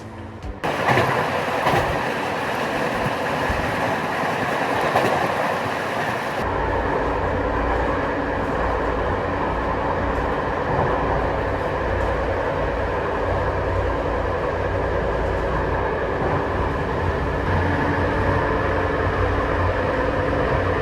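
Passenger train running along the line: a steady rolling noise of wheels on rails. About six seconds in, a deep low rumble sets in and continues.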